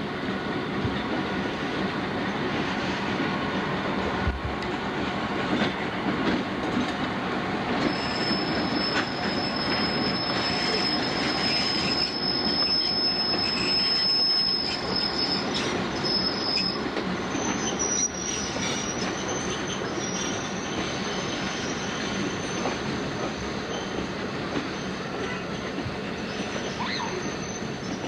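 Freight train rolling on steel rails with a steady rumble. From about a third of the way in, a thin, high wheel squeal joins it, then steps up slightly in pitch and holds to the end.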